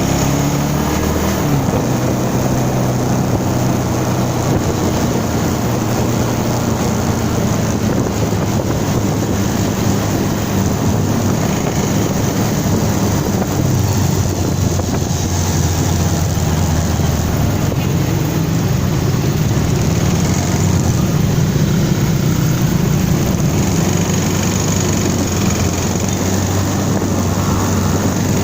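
Motorcycle engine running at a steady speed while riding, with wind noise on the microphone.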